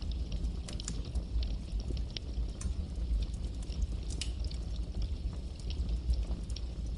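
Campfire burning with a steady low rumble and frequent irregular sharp crackles and pops of burning wood.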